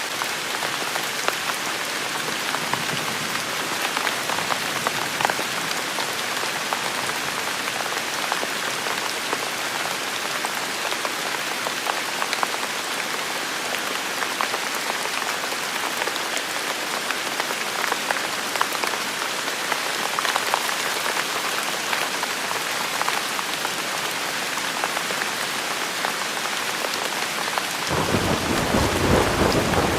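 Steady rain falling, with many small drop taps. About two seconds before the end, a low rumble of thunder starts suddenly and grows louder.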